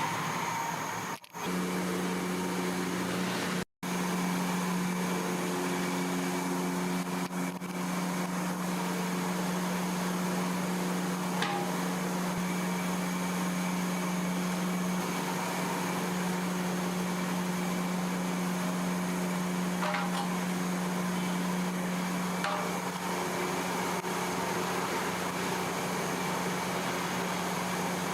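Steady mechanical hum: a constant low drone with a hiss over it. It cuts out abruptly twice near the start, and a few faint ticks sound later.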